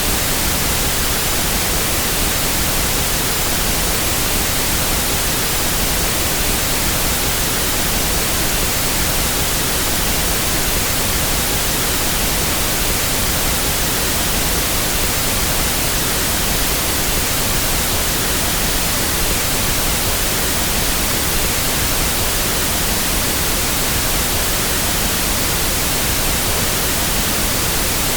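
Steady pink noise: an even, unbroken hiss across the whole frequency range at constant level, a test signal for equalizing sound systems.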